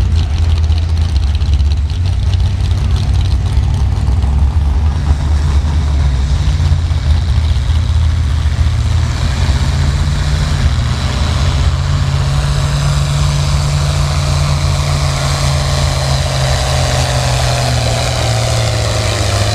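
International Harvester 966 pulling tractor's engine running hard under load during a pull, a loud steady low drone with no let-up.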